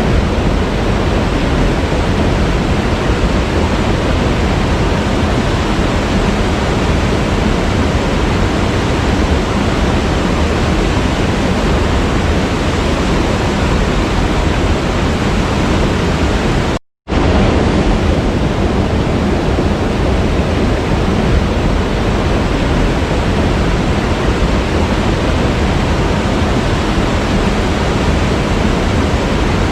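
Waterfall rushing steadily, an even roar of falling water. About 17 seconds in it cuts out completely for a split second, then resumes as before.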